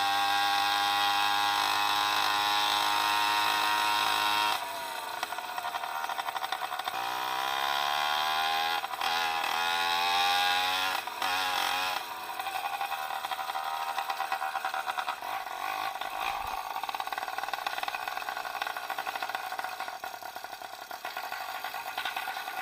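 66cc two-stroke bicycle kit engine running at a steady high pitch, then dropping off about four and a half seconds in. It climbs in pitch again as it revs up, cuts back twice, and then runs rougher and lower for the rest.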